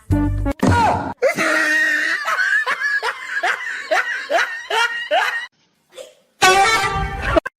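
A person laughing: a long run of short, repeated laugh pulses, about three a second, then after a brief pause another short loud burst of laughter near the end.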